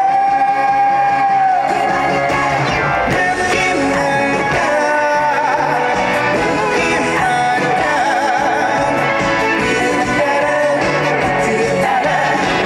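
Male trot singer singing live over loud backing music, holding one long note for about the first second and a half, then carrying a melody with heavy vibrato.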